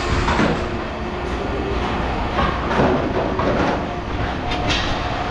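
Scrap metal clanking and rattling in irregular knocks, over a steady low hum.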